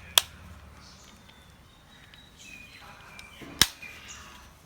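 Two sharp plastic clicks, about three and a half seconds apart, as the TV remote's two case halves are snapped shut, with faint handling in between.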